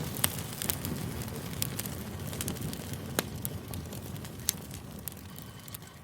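Campfire crackling: irregular sharp pops and snaps over the low, steady rush of burning wood, easing off slightly near the end.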